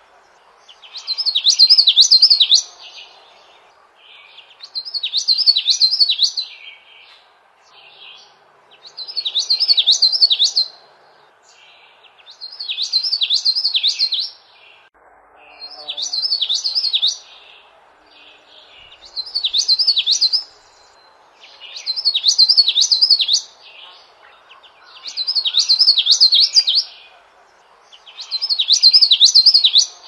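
A songbird singing the same quick phrase of rapid, high, downslurred notes over and over, each phrase lasting about two seconds and returning roughly every three and a half seconds. A faint steady background hiss of ambience lies underneath.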